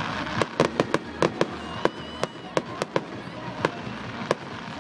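Fireworks going off in a rapid, irregular string of sharp bangs, more than a dozen in under five seconds, with a short thin whistle about two seconds in.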